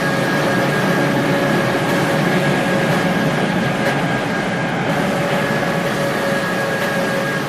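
A train passing at the station: steady, loud rolling noise with two steady whining tones held through it.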